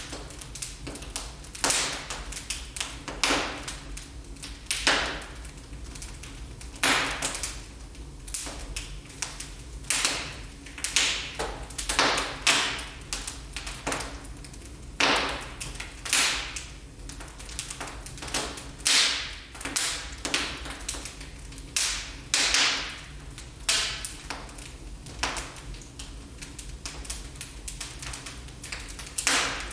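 Wood fire burning in a fireplace: irregular sharp crackles and pops, some in quick clusters, over a steady low rumble of the flames.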